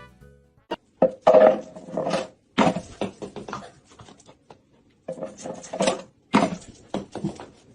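A dog vocalizing in a string of short, rough bursts with brief pauses between them.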